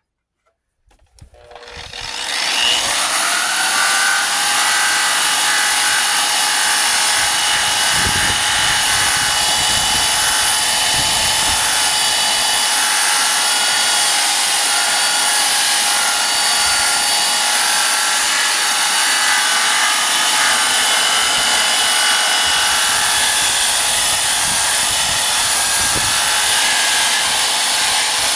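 Handheld electric burnishing tool with an 80-grit abrasive spinning up about two seconds in, then running steadily with a high whine as it strips paint off the truck's body panels.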